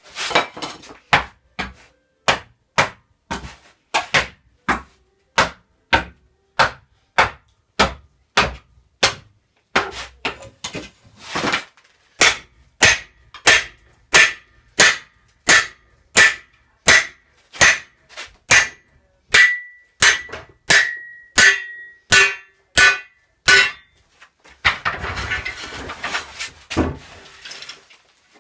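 Hammer blows struck at a steady pace, about three every two seconds, the later strikes ringing with a high tone. Near the end the hammering stops and a short stretch of rough scraping and rustling follows.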